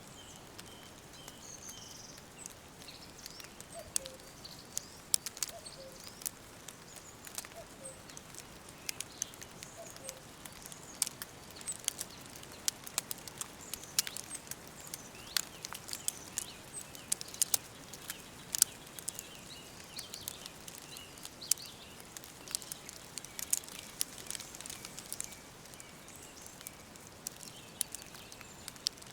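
Woodland ambience: birds chirping now and then over a constant run of sharp, irregular crackles. A few short, low calls repeat in the first third.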